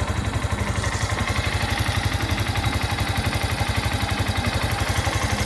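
Yamaha Crosser motorcycle's single-cylinder engine idling with a steady, even rhythmic clatter. This small noise is common to every Crosser and is taken by owners for a valve fault, but it is normal.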